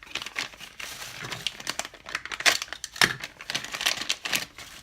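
Plastic packaging crinkling and rustling in irregular bursts as parts are handled and unwrapped.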